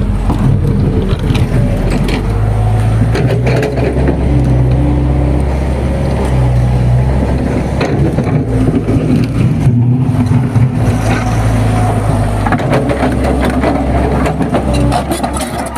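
A vehicle's engine running steadily with a low hum, with rattling and knocking on top.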